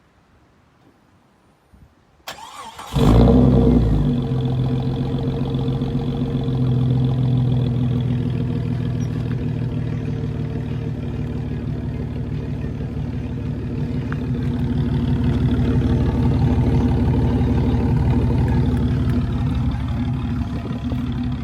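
Jeep Cherokee 4.0 straight-six cranked by the starter about two seconds in, catching about a second later with a brief flare in revs, then idling steadily through a cat-back straight-pipe exhaust.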